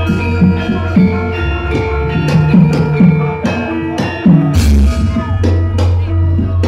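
Javanese gamelan playing: ringing metal-keyed instruments and gongs sustain over a deep steady tone, with repeated drum strokes throughout.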